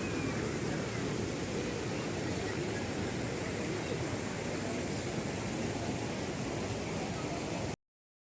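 Steady rush of water from a waterfall, an even hiss with no break, which cuts off abruptly near the end.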